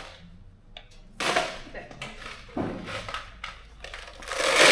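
Clatter of metal bolts and fasteners being handled. A faint click comes about three-quarters of a second in, then sharper knocks a little after one second and again around two and a half seconds, and a louder, sustained clatter begins near the end.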